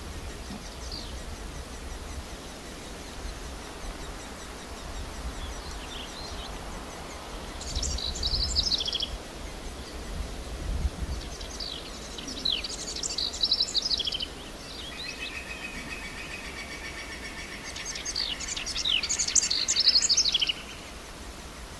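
Birdsong over a low background rumble: three bursts of rapid, high chirping song a few seconds apart, with a steady lower trill running under the last one.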